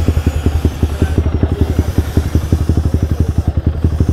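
Rusi Diablo's big-bore single-cylinder engine idling through a new custom-made Orion muffler with no silencer insert fitted: a steady, rapid, even beat of exhaust pulses.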